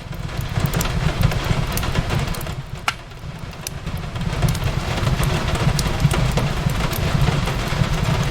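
Fireplace crackling, with scattered sharp pops and one distinct pop about three seconds in, over a steady low rumble and the hiss of rain. The mix dips briefly around three seconds, then swells back.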